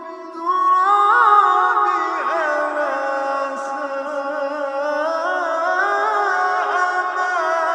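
Melodic Quran recitation: one voice drawing out long, ornamented notes that slide up and down, over a steadier held tone beneath.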